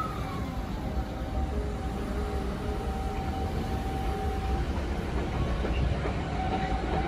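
JR East E217 series electric train moving slowly past a platform: a steady low rumble of wheels on rail, with the level whine of its traction motors.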